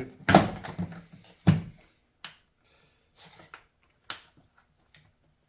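Plastic knocks and clicks from the air filter housing lid and its clips being worked into place: two sharp knocks, about a third of a second and a second and a half in, then a few lighter scattered clicks.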